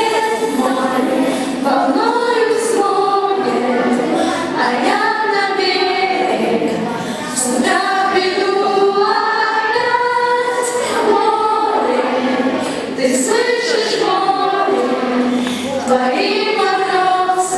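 A group of schoolchildren singing a song together as a choir.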